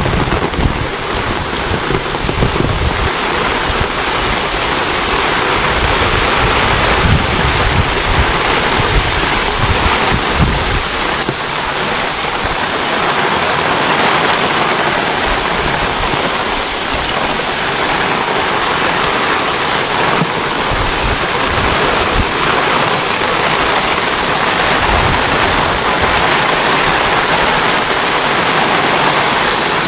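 Heavy rain pouring down in a dense, steady hiss, with a low rumble underneath for roughly the first ten seconds.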